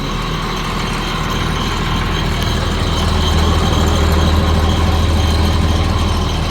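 International DT466 turbo-diesel in a 1987 S1900 dump truck, running at idle. A deeper low hum swells from about two and a half seconds in and eases off near the end.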